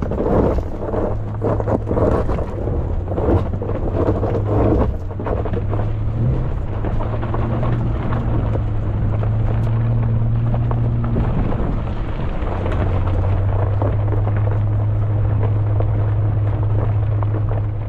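A vehicle's engine running steadily while driving over a rough dirt road. Knocks and rattles from bumps fill the first few seconds, then it settles to a smoother, steady drone.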